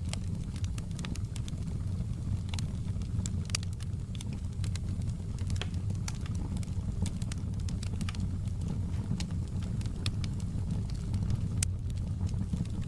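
Outdoor campfire burning, a steady low roar of flames with frequent sharp crackles and pops of burning wood.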